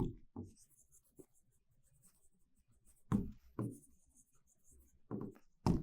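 Faint scratching of writing strokes, with a few short soft knocks about three seconds in and again near the end.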